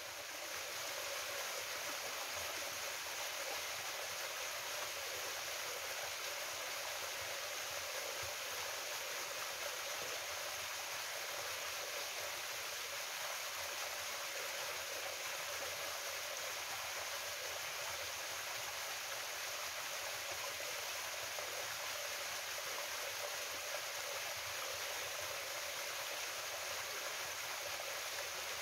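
Mountain waterfall and stream water rushing over rocks, a steady even rush with no breaks.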